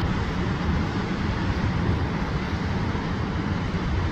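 Huka Falls on the Waikato River: fast-moving water rushing through the gorge and over the falls, a steady, unbroken rushing noise with a strong low rumble.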